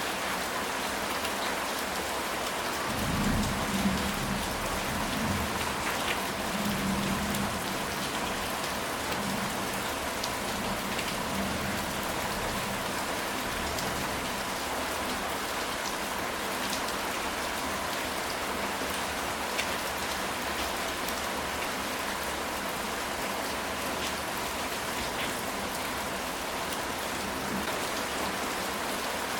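Steady rain falling on a ceramic tile roof, with scattered drop ticks. A low rumble of distant thunder rises about three seconds in and fades over the next few seconds.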